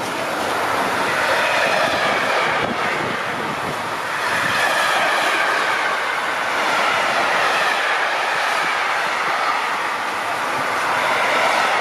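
A train passing at speed: a loud, steady rush of wheels on the rails, with faint whining tones that slowly drift in pitch.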